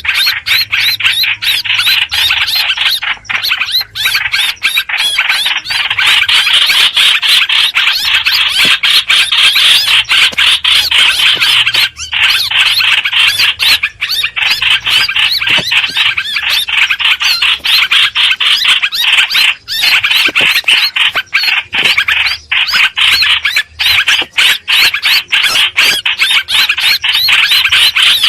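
Lure recording of the bird that Vietnamese bird-keepers call hoành hoạch, calling without pause in a dense, rapid stream of short, shrill notes.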